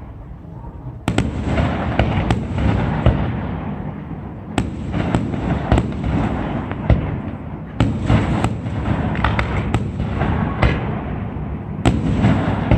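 Fireworks display: many sharp bangs from bursting shells over a continuous crackle and rumble, thickening about a second in.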